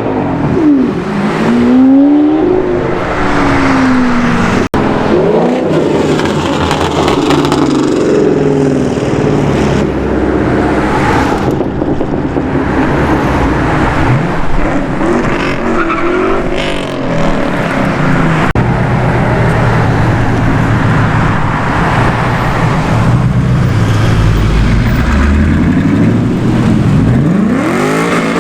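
Several high-performance cars revving and accelerating past one after another, their engine notes rising and falling in pitch as each goes by.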